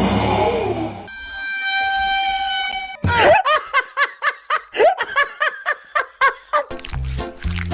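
A run of cartoon sound effects: a low thud, then a steady horn blast held for about two seconds, then quick high-pitched giggling. Music with a regular beat comes in near the end.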